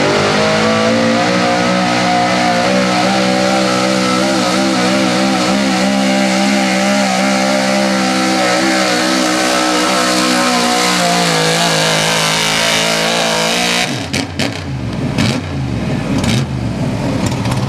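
Engine of a modified 4x4 pulling truck held at high revs under load during a pull, easing slightly in pitch near the end of the run. About fourteen seconds in the throttle is cut: the revs fall away with a few sharp cracks, and the engine keeps running at lower revs.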